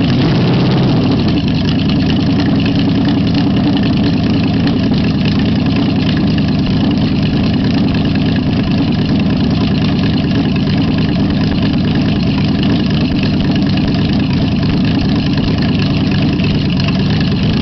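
Ford V8-60 flathead race engine, built with Edelbrock parts for a hydroplane, idling steadily.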